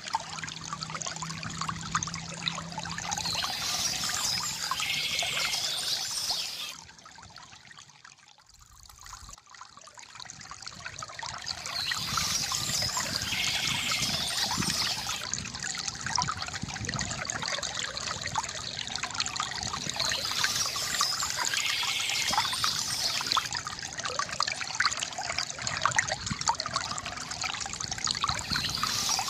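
Stream water trickling and splashing steadily, dipping much quieter for a few seconds about a third of the way through before rising again.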